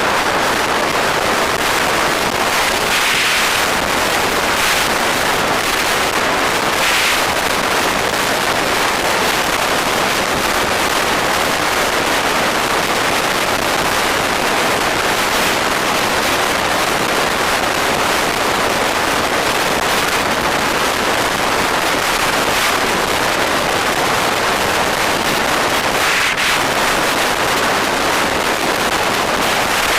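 Steady, loud rush of wind on the microphone of a moving bike, drowning out other road sound.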